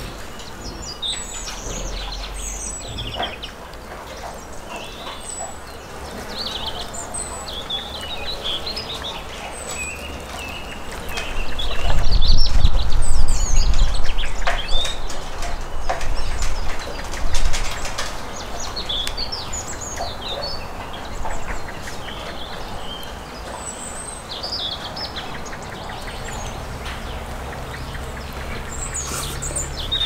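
Small birds chirping and calling throughout, with light clicks and scrapes of a spoon and food being handled. Midway a louder low rumble lasts a few seconds.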